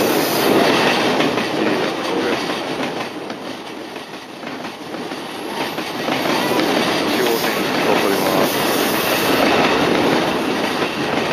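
Chuo Line electric commuter train running on the tracks below, wheels clattering over the rail joints with a little squeal. The noise eases off a few seconds in and builds again after the middle.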